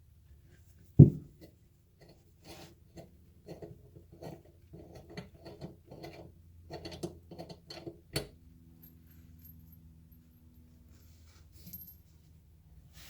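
A thump and a run of clicks and knocks, then a sharp click about eight seconds in, followed by a steady buzz from a gravity-fed steam iron's solenoid valve. The buzz is the sign of a dirty solenoid valve that needs cleaning inside.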